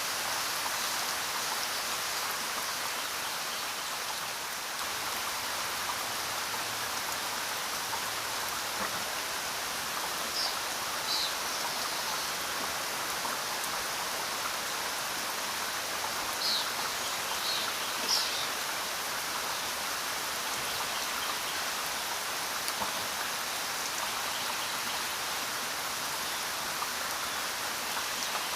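Steady rain falling, a dense even hiss of drops with no pauses. A few brief, sharper drop sounds stand out about a third and about two thirds of the way through.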